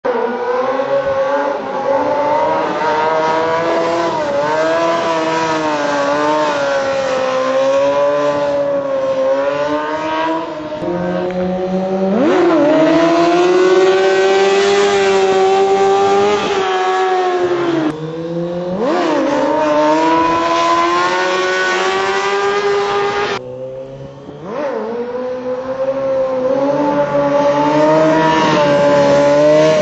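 Kawasaki motorcycle engine running hard, its pitch wavering with the throttle. It revs up sharply three times, about 12, 18 and 24 seconds in, and holds high revs after each, with a short easing off just before the last rise.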